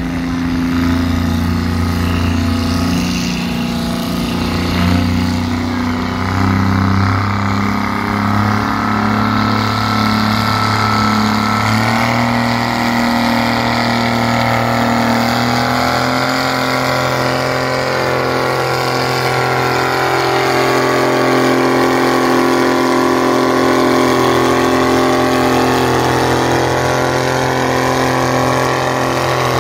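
Antique farm tractor engine running steadily, its pitch stepping up about twelve seconds in.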